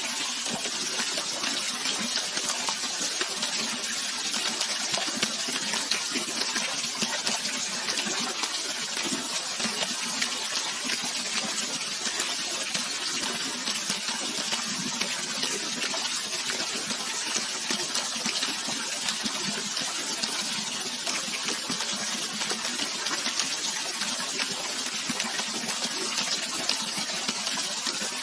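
Steady rushing and splashing of naturally flowing water, an even hiss that stays constant throughout.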